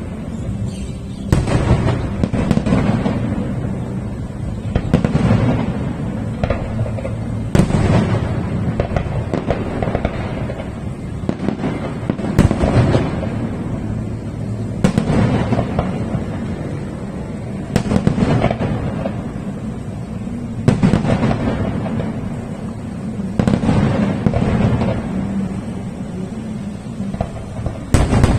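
Fireworks going off in a steady series: a sharp bang every two to three seconds, each followed by a lingering crackling rumble.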